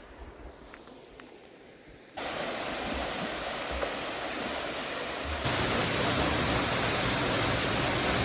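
About two seconds of faint quiet with a few light clicks, then a steady, even rushing noise cuts in abruptly and steps up louder about five seconds in.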